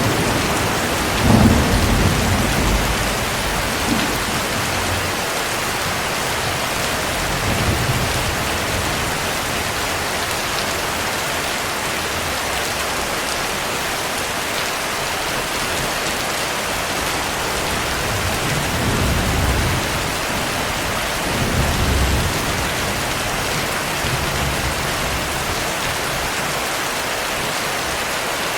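Steady heavy rain with rolling thunder. Four low rumbles come through it: the loudest starts sharply about a second in, and weaker ones follow later.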